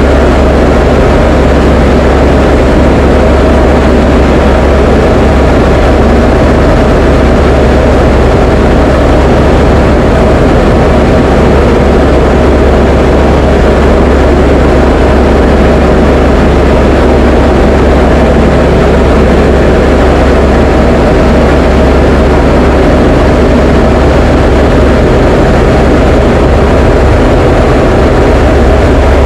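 Diamond DA20 light aircraft's piston engine and propeller droning loudly and steadily in level flight.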